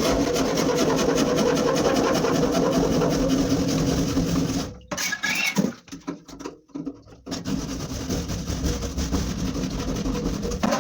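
A handheld power tool running steadily at a fixed pitch, cutting out about four and a half seconds in, then running again in short stop-start bursts.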